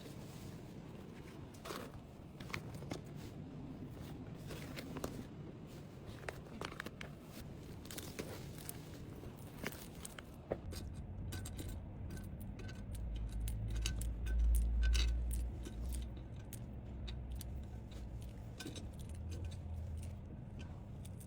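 Small items and packaging being handled: scattered light clicks, scrapes and rustles, with a low rumble about halfway through.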